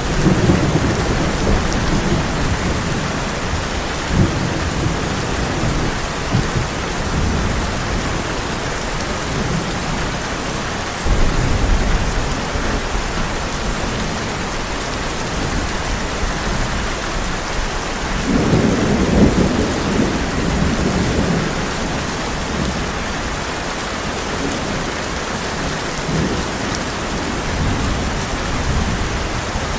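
Heavy rain drumming steadily on a tin roof, with thunder rumbling several times, the loudest roll about two-thirds of the way through.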